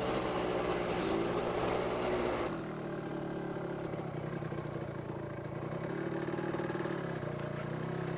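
Two-stroke engine of a Yamaha RZX motorcycle running at low speed on the move. It gets quieter about two and a half seconds in, and its note rises a little later on.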